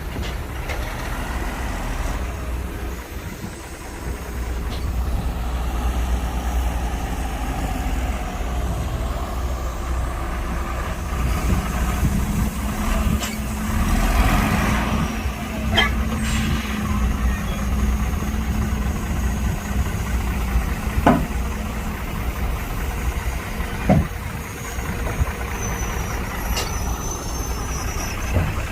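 Diesel engines of heavy earthmoving machines and dump trucks running with a steady low rumble. A hiss comes about halfway through, and a few sharp knocks follow.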